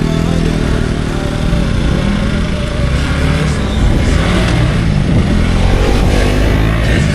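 Hero Xpulse motorcycle's single-cylinder engine running on the move, its revs rising and falling through the bends, getting louder about four seconds in.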